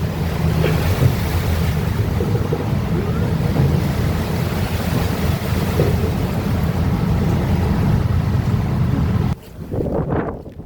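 Wind buffeting the microphone and rough sea waves rushing against a ship at sea, over a steady low drone. The noise cuts off abruptly about nine seconds in, leaving quieter, uneven sounds.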